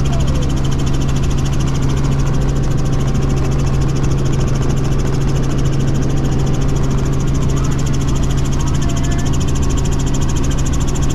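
Helicopter in flight: a loud, steady drone of engine and rotor with a low hum.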